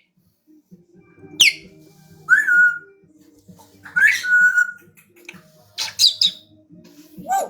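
African grey parrots whistling: a quick whistle falling steeply in pitch, then two whistles that slide onto a held steady note, then a few short high chirps and a rising whistle near the end.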